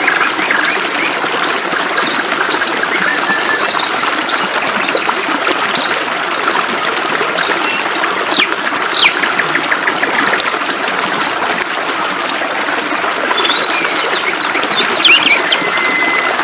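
Flowing water making a steady rushing hiss, with several birds chirping and trilling over it in short repeated high notes.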